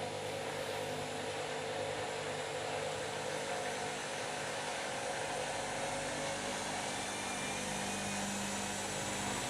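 Washing machine running a cycle with bed linen: a steady motor hum and whine, with a further low tone joining about halfway through.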